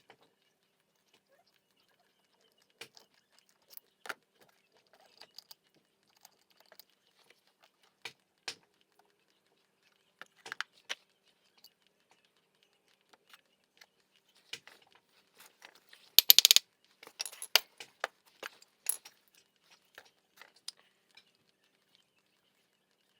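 Irregular metal clinks and clicks of hand tools and small brake caliper parts being handled, with a quick run of sharp clinks about two-thirds of the way through.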